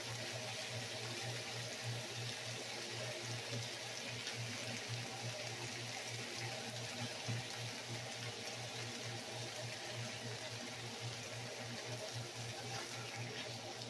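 Diced onions and green chilies sizzling steadily in a frying pan, an even hiss with a low hum beneath it.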